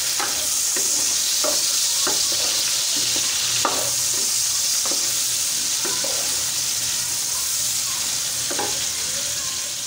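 Tomato pieces and onions sizzling steadily in hot oil in an aluminium pot, stirred with a wooden spatula that scrapes the pot bottom in short strokes about once a second.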